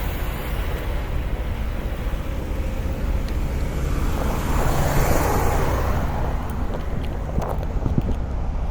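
Semi truck's diesel engine running with a steady low rumble, a rushing noise swelling and fading in the middle, and a few light clicks near the end.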